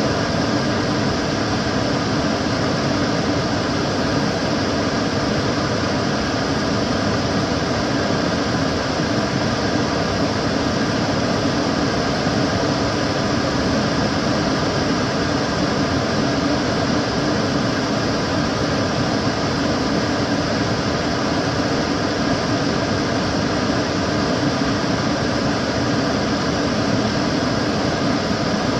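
Kitchen cooker hood extractor fan running steadily, a constant rushing of air with a faint hum and no change.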